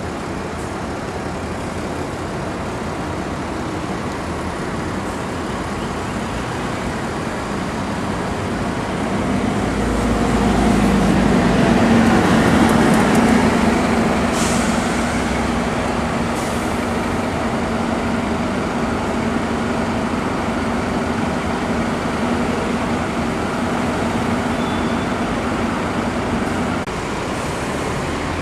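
Scania K310UD double-deck bus's diesel engine running and growing louder as the bus pulls away, settling into a steady drone from about ten seconds in. A short hiss of air comes a little after the middle.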